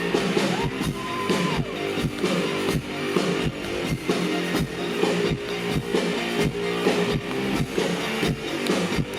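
Live rock band playing an instrumental passage: electric guitar and drum kit over a steady beat, with no vocals.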